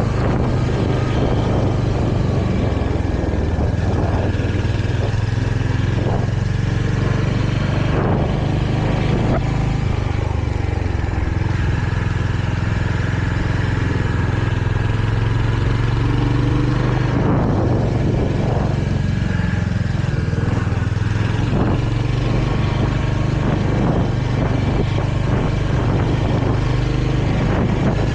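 Royal Enfield Hunter 350's single-cylinder engine running under way, with wind and road noise; its note shifts in pitch a few times as the rider changes speed.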